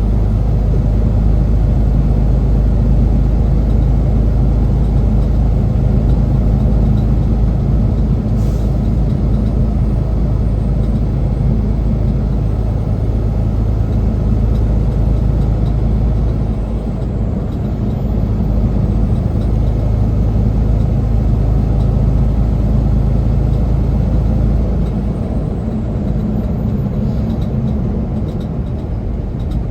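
Semi truck's diesel engine heard from inside the cab: a steady low drone with road noise, the deepest part easing off near the end.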